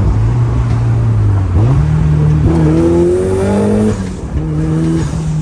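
Turbocharged Mazda Miata's four-cylinder engine pulling under acceleration, its pitch climbing steadily. About four seconds in it dips, as at a gear change, then it pulls again.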